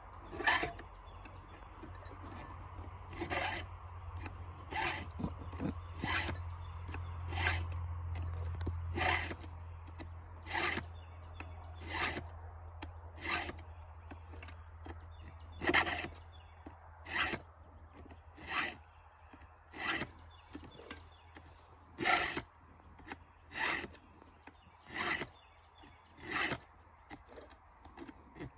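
Round chainsaw file rasping across the cutting teeth of a saw chain by hand: about twenty short, even strokes, roughly one every second and a half, with a slightly longer pause now and then as the file moves to the next tooth. A faint low hum runs underneath.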